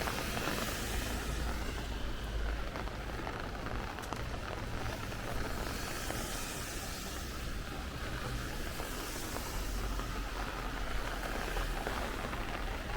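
Steady rain falling in a city street, an even hiss with a low rumble underneath that swells in the first two seconds and again about ten seconds in.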